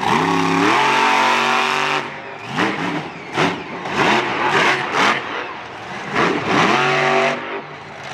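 Monster truck engine revving hard: it climbs and holds at high revs for about a second and a half, then blips up and down several times in quick succession, and climbs again near the end.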